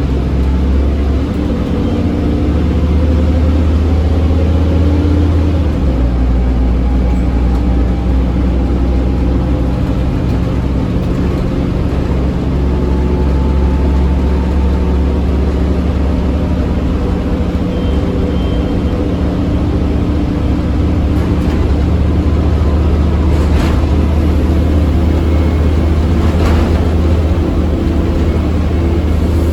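Scania OmniCity bus's diesel engine running hard under load, a steady, deep drone with slowly shifting engine pitch. Two brief knocks or rattles sound near the end.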